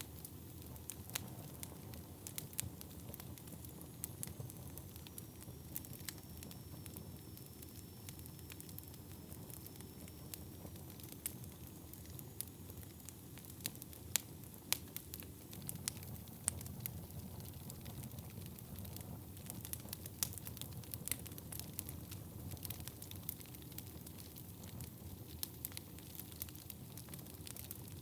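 Wood fire burning in a fireplace: a steady low rush of flames with irregular sharp crackles and pops from the burning wood.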